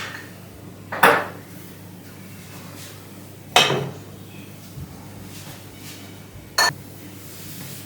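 Kitchenware being set down and moved about on a hard surface: three sharp clinks with a short ring, a couple of seconds apart, and a faint knock between the last two.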